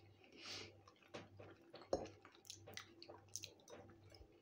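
Faint close-up chewing of soft fried potatoes and eggs: quiet wet mouth sounds with scattered small clicks.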